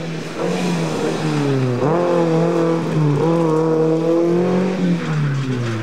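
Rally car engine at high revs, its pitch dropping and climbing again about two seconds in and once more about three seconds in, as it lifts and shifts, then falling away near the end.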